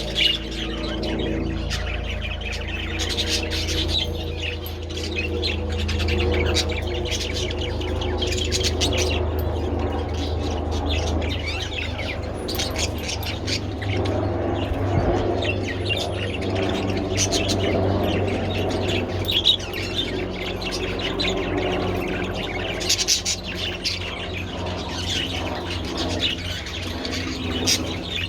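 A flock of budgerigars chattering and chirping without pause, many short high chirps overlapping, over a steady low hum.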